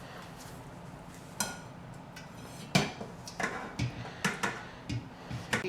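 Cookware clinking and knocking as strained broth is handled in a colander and bowl: about eight sharp, separate taps spread over a few seconds.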